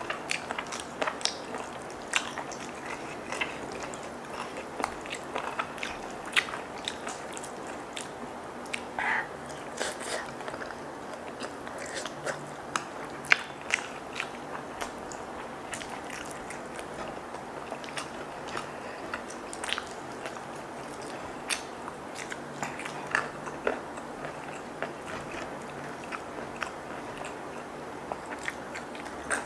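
Close-miked chewing and biting while eating fried chicken coated in chili sambal: wet mouth sounds with irregular crisp clicks and crunches.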